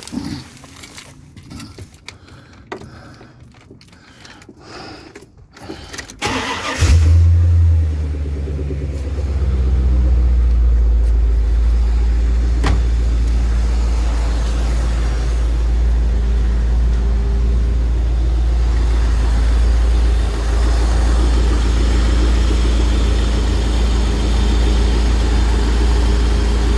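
Chevrolet 350 (5.7 L) V8 cranking briefly and catching about seven seconds in, flaring up for a moment, then settling into a steady idle.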